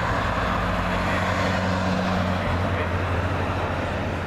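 An engine running steadily: a low, even drone with a wide hiss over it. The higher of its two hums drops away about two and a half seconds in.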